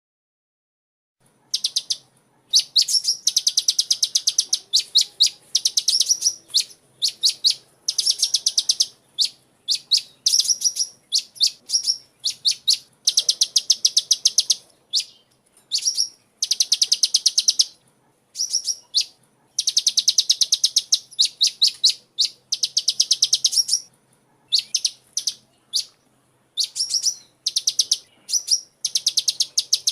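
Sunbird (kolibri) singing: rapid, high trills of fast-repeated notes in bursts of about a second, following one another closely, beginning about a second in.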